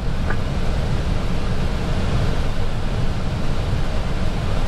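Steady rushing noise on an Airbus A320 flight deck on short final, the sound of air streaming over the airframe.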